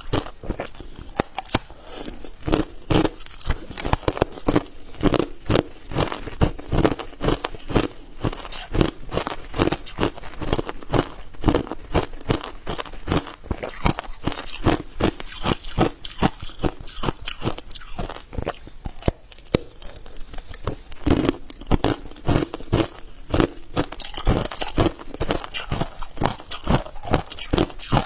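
Hard ice cubes being bitten and chewed, with sharp, irregular crunching cracks several times a second.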